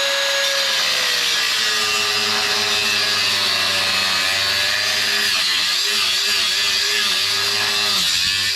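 Angle grinder with a cut-off wheel cutting through steel C-channel: a loud, steady hissing grind with a motor whine that drops in pitch over the first few seconds as the wheel bites into the cut, then wavers under load.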